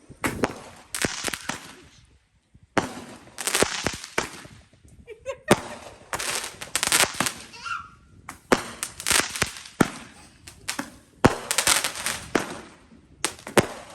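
Consumer fireworks going off in rapid crackling pops, in about five bursts of one to two seconds each with short gaps between them.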